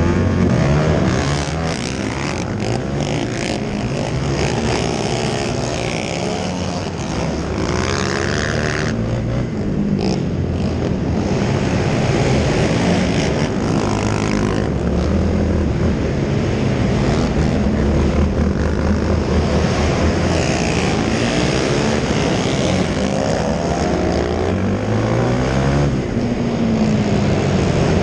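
Several racing quad (ATV) engines running together, a continuous buzzing din of overlapping engine notes that rise and fall as the riders throttle on and off.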